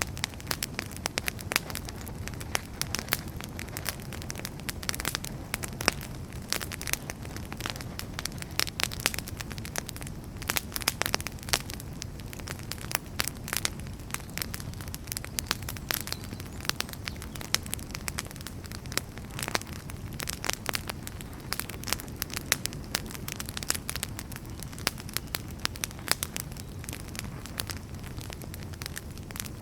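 Wood fire crackling, with frequent sharp snaps and pops over a steady low rumble of the flames.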